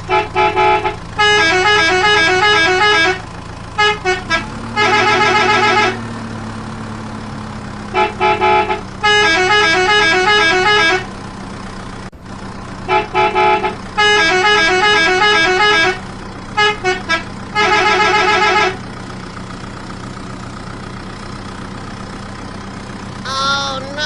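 Battery-powered toy vehicle's electronic sound chip playing a beeping horn tune in short repeated phrases, over a steady low motor hum. A short wavering tone comes near the end.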